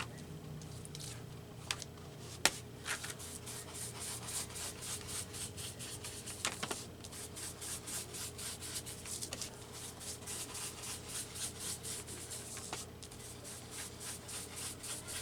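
Ink pad rubbed in quick repeated strokes along the edge of a paper postcard to ink it, with a few sharper taps.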